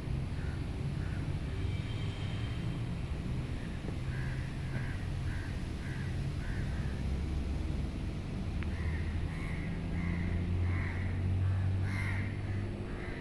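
A bird calling in runs of short, repeated calls, more often in the second half, over a steady low rumble.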